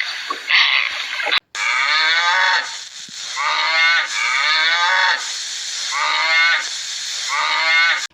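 Cow mooing: a series of drawn-out moos about two seconds apart, each falling in pitch. Before them come brief hissy bursts, cut off suddenly.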